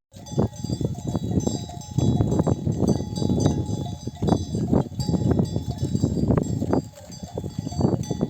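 Bells on a flock of sheep ringing continuously as the flock moves, over a dense rustle with many short knocks.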